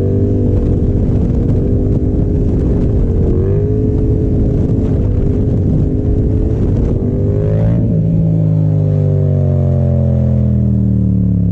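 Yamaha FZ-07's 689 cc parallel-twin engine running under steady throttle. From about eight seconds in, the revs slowly fall away.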